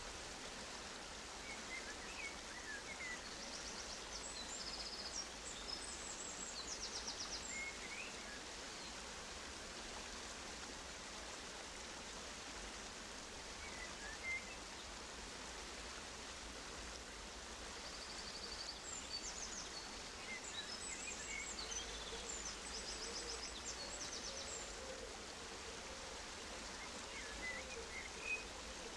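Steady rush of running water, with small aviary birds chirping and twittering high over it in two spells and a few scattered single chirps.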